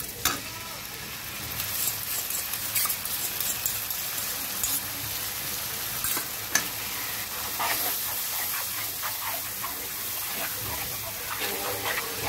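Frying mustard–poppy seed paste in a karahi sizzling as sour curd is poured in. A metal spatula scrapes and taps against the pan as the curd is stirred through.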